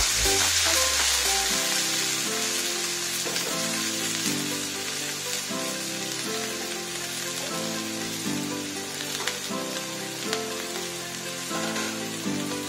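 Sitaw (yard-long beans) sizzling as they fry in hot oil in a pan, the sizzle loudest at the start and easing off as it goes on. Background music plays underneath.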